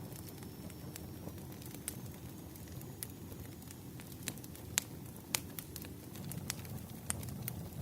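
Campfire of split firewood burning: a steady low rush of flames with scattered sharp crackles and pops, the loudest two about five seconds in.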